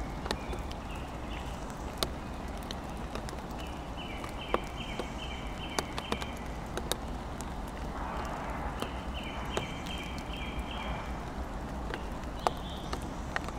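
Steady rain with scattered sharp drips ticking irregularly throughout. A songbird sings twice, each time a quick string of repeated two-part whistled notes.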